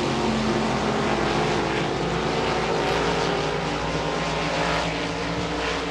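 A pack of RaceSaver sprint cars running at speed, their 305 V8 engines making a steady drone of overlapping engine notes.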